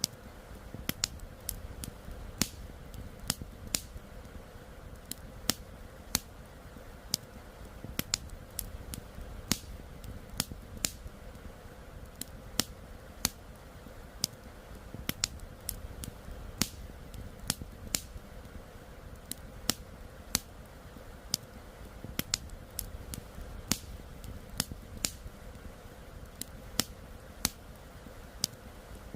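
Wood campfire crackling, with sharp irregular pops about one or two a second over a steady low rush of flowing river water.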